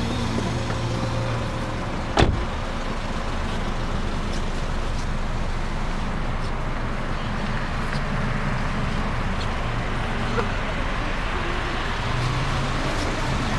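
2003 Toyota Corolla engine running steadily, with one sharp knock about two seconds in.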